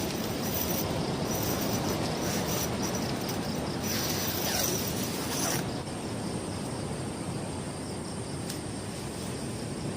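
Heavy rain and strong wind: a steady rushing noise that is louder for the first half and eases a little over halfway through. Night insects chirp in a steady high tone underneath.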